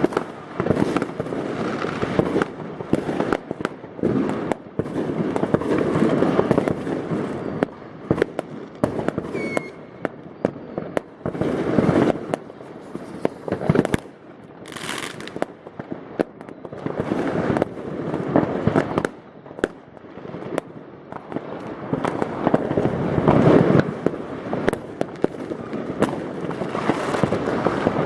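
New Year's Eve fireworks going off all around: a dense, continuous barrage of overlapping rocket and firecracker bangs and crackling, with a brief whistling hiss about halfway through.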